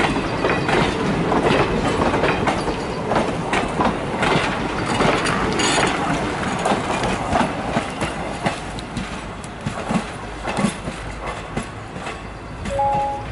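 Passenger train coaches rolling past close by, their wheels clattering over rail joints in a rapid clickety-clack. The clatter thins and fades as the last coach goes by about six seconds in and the train draws away.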